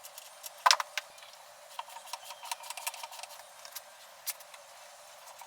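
Small metal brake parts and hand tools being handled on a work surface: a loud cluster of clicks just under a second in, then a run of light clicks and clinks with short faint rings.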